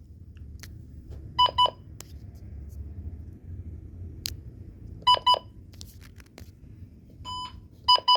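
Weather radio beeping: short electronic double beeps on a single pitch, three pairs spread over several seconds with a lone beep before the last pair, over a steady low hum.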